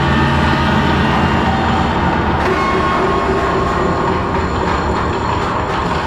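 Musique concrète film score: a loud, dense, noisy drone like rolling machinery, with no beat. Held metallic tones come and go over it, and a new one enters about two and a half seconds in.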